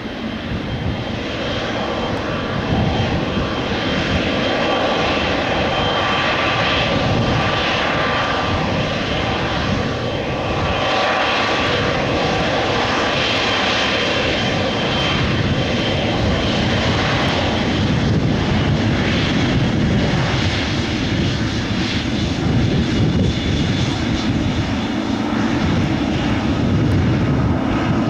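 Boeing 777F freighter's GE90 turbofan engines at takeoff thrust: a loud, steady jet roar with a faint whine in it, swelling over the first couple of seconds and then holding.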